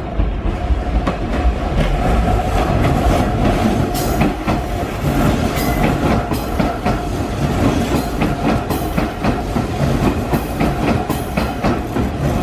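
Hanshin 5500-series electric commuter train running past close by, its wheels clattering over rail joints and points, with a steady hum under the clatter.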